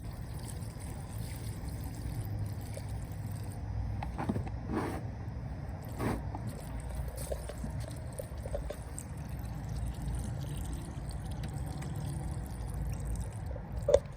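Gasoline trickling and pouring steadily out of a tipped-over lawn mower's fuel tank into a container of used oil, with a few faint knocks.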